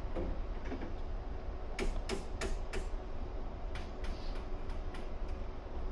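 Ryutetsu 5000 series electric train running along the track: a steady low rumble with a faint hum, and wheels clicking over the rails in two runs of quick clicks, four about two seconds in and several more from about four seconds.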